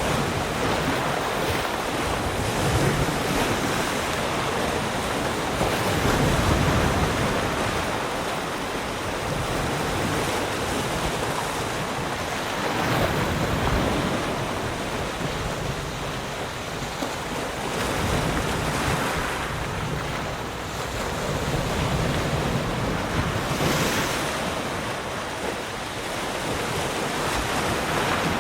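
Sea surf: waves breaking and washing on the shore in a continuous rushing hiss that swells and eases every few seconds.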